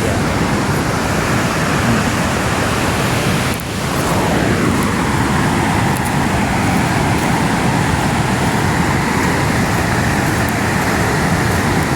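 Steady roar of a large, fast-flowing waterfall, with water rushing at high pressure; the sound dips briefly about four seconds in.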